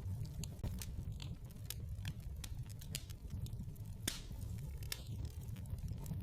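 Wood fire in a fireplace crackling, with irregular sharp pops over a low steady rumble; the loudest pop comes about four seconds in.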